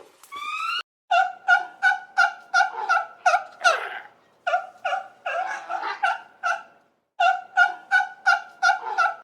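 A domestic fowl calling in short, repeated notes, about three a second, in three runs broken by brief pauses. A short rising tone sounds just before the calls begin.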